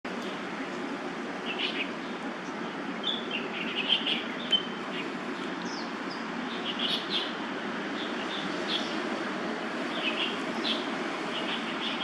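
Small birds chirping, short high calls scattered about once a second, over a steady low background hum.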